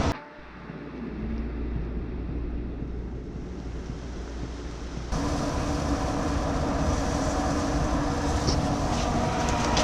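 Steady mechanical hum and whir of a pellet grill's fan running, with a low rumble in the first part. The sound changes abruptly about five seconds in to a brighter, steadier whir with a constant hum.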